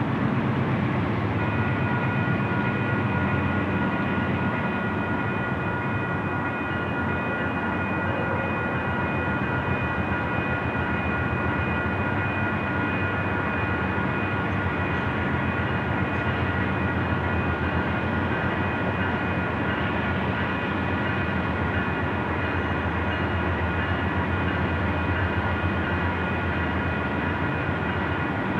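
A diesel freight train approaching from a distance: a steady low rumble with a steady high-pitched whine that sets in about a second and a half in.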